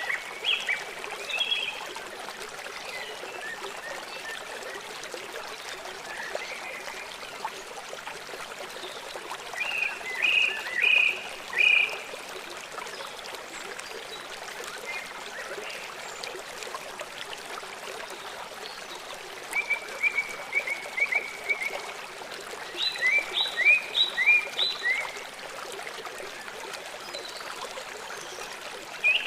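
Small songbirds singing short phrases of a few quick chirped notes every several seconds, over the steady rush of running stream water.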